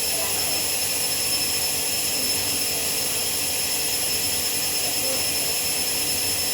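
Hoover 7 kg washing machine in the final spin of its Rapid 14 programme at 800 rpm: the drum spins at a steady speed with an even whoosh and a steady high whine.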